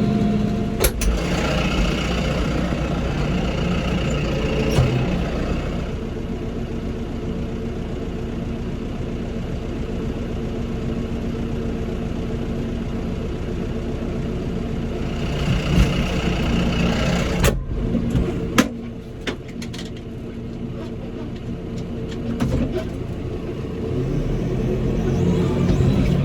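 Farm tractor's diesel engine running steadily as it is driven, with a few sharp clicks about two-thirds of the way through.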